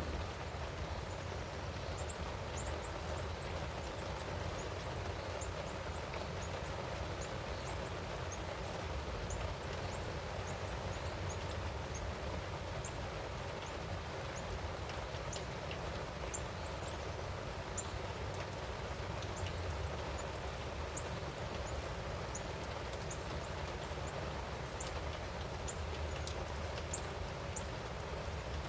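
Steady rain falling, with a bird's short, high chirps repeating over it every second or so.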